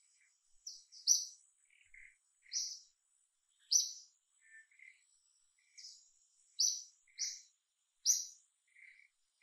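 Birds chirping: about eight short, sharp high calls at uneven intervals, with softer, lower chirps between them, over a faint steady high insect whine.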